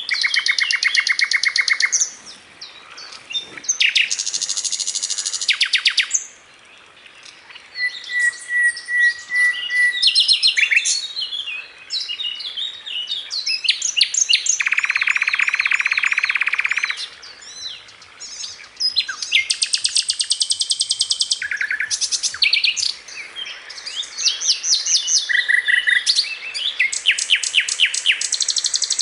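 A sikatan londo flycatcher singing continuously and vigorously: a long, varied song of fast trills, buzzy rattling phrases and runs of high chirps, with only short pauses between phrases.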